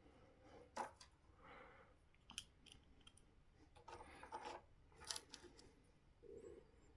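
Faint, scattered clicks and taps of small screws and a driver being handled as screws go back into the skid plate of a 1/8-scale electric RC car, with a short cluster of them a little past the middle.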